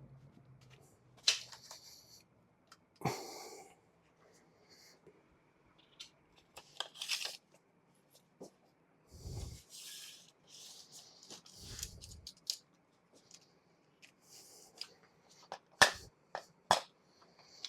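Scattered hand-handling noises at a workbench: light clicks and sharp knocks, short rustles, and a couple of dull low thumps about 9 and 12 seconds in. The sharpest knock comes near the end.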